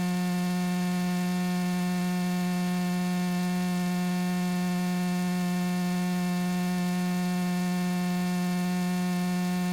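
Steady electrical hum: a low, unchanging buzz with a ladder of overtones, heard through the aircraft's intercom audio feed.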